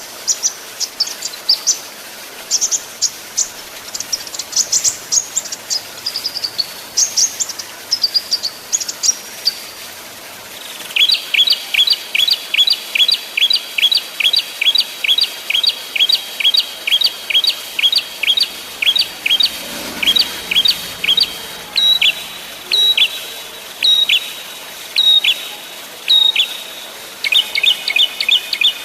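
Small songbirds calling. For about ten seconds there are quick, varied high chirps. Then comes a long run of sharp, evenly spaced call notes, about three a second, which slows to about one a second before a faster run near the end.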